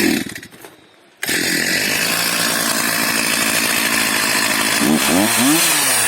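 Two-stroke chainsaw running. It drops out abruptly for about a second, then runs again and is revved up and down near the end. The saw keeps stalling, and the crew wonders if it is out of fuel.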